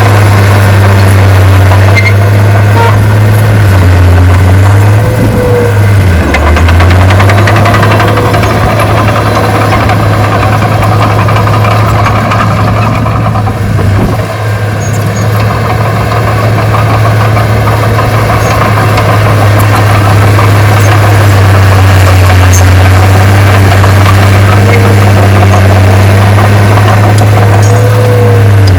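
Heavy diesel engine of earthmoving machinery running loud and steady, its low pitch sagging briefly about four to six seconds in and again at the very end.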